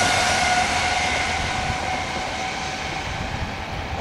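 Eurostar e320 (Siemens Velaro) high-speed train pulling away, its traction motors giving a steady whine over the rolling rumble, the whole sound fading as the train recedes.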